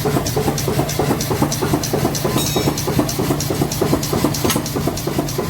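A machine running with a steady low hum and a regular clatter, about four strokes a second.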